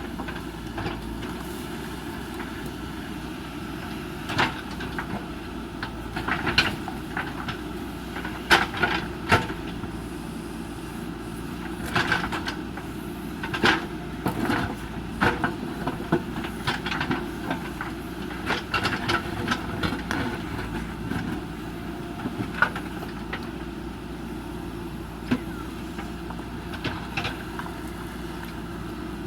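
JCB 3DX backhoe loader's diesel engine running steadily, with irregular sharp knocks and clanks from working at the old bridge.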